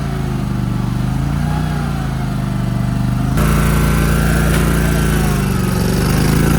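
A vehicle engine running under load, its pitch dipping and rising a couple of times, with an abrupt change in sound about three and a half seconds in.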